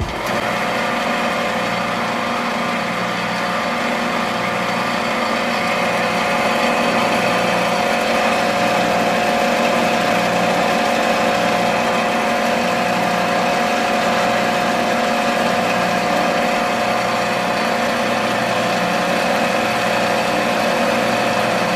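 Small motor running steadily at a constant speed, with a steady whine.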